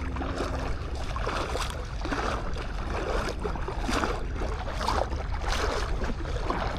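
Footsteps crunching on beach sand at a walking pace, a little under two steps a second, over a steady low wash of sea and wind.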